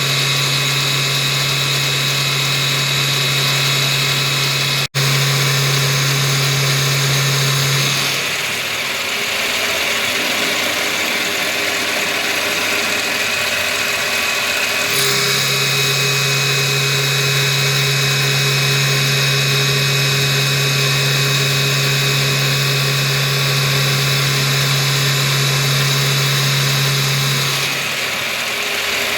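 Combimill milling machine cutting steel with a 10 mm four-flute end mill: a steady low hum under high whining tones. The hum drops away about eight seconds in, returns about fifteen seconds in and drops again near the end, with a momentary break about five seconds in.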